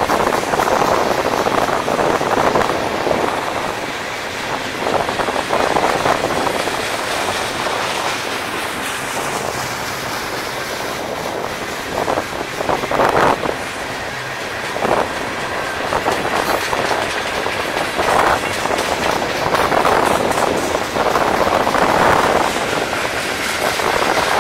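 Freight train cars (tank cars, gondolas and boxcars) rolling past, a steady rush of wheel-on-rail noise with a few sharper clanks in the middle.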